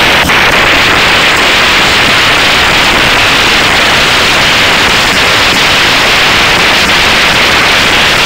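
High-pressure washer jet spraying water onto a car's engine bay: a loud, steady hiss of spray.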